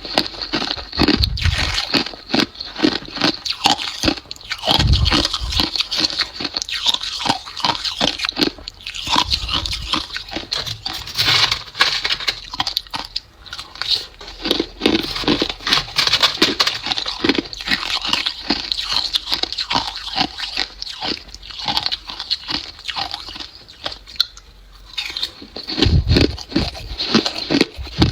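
Ice being bitten and chewed close to the microphone: a dense run of irregular crunches and crackles, with brief pauses.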